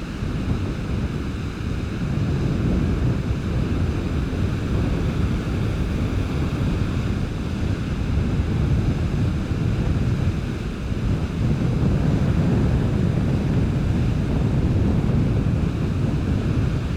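Strong wind buffeting the camera's microphone in a steady low rumble, over the continuous wash of surf on a beach.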